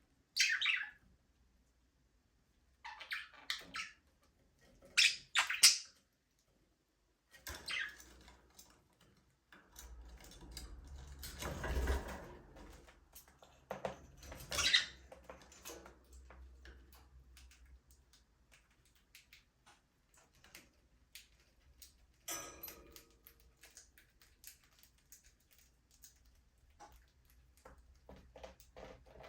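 Budgerigars chirping and squawking in short scattered bursts with quiet gaps between. About ten seconds in there is a few seconds of rustling noise with a low rumble, and light clicks near the end.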